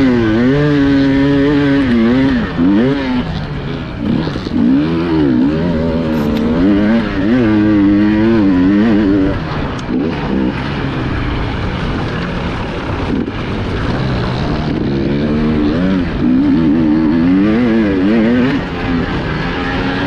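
Enduro motorcycle engine heard on board, its pitch rising and falling over and over as the throttle is opened and shut, weaker for a few seconds in the middle before picking up again.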